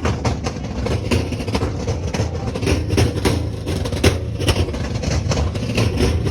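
Car engine idling with a steady low rumble, with scattered short clicks and knocks over it.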